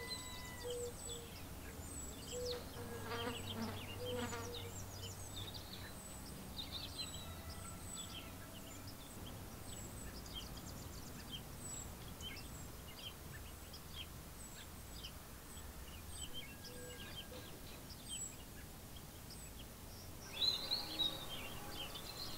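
Faint outdoor ambience with small birds chirping on and off, with a louder burst of chirping near the end.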